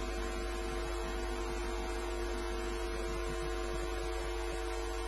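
Steady electrical hum, with several steady tones above a low drone and no change in level.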